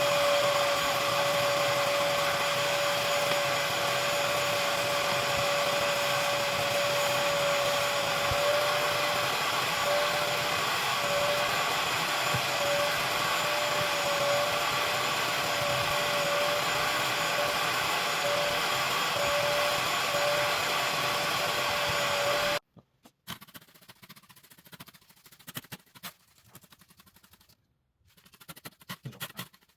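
An electric vacuum motor runs steadily with a high whine, then cuts off suddenly about three-quarters of the way through. After that only faint, scattered sounds remain.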